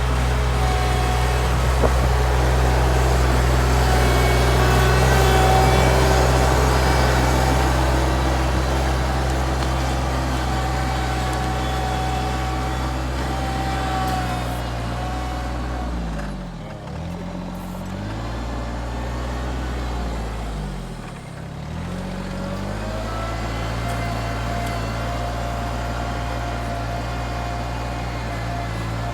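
A large engine running steadily. About halfway through, its pitch sags and recovers twice in quick succession.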